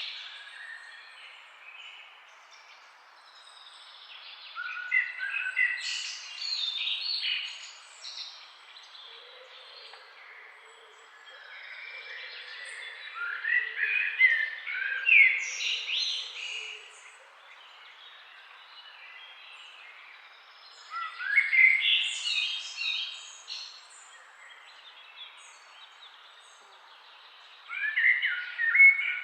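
Songbirds chirping and singing in four bursts of quick, sliding high notes, each a few seconds long and coming about every seven to eight seconds, over a faint steady background hiss.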